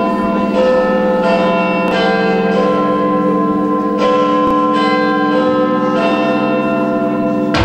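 Recorded bells ringing through a hall's sound system, several bells struck in turn with long overlapping rings. This is the opening of a dance backing track. Right at the end it breaks off into music with drums.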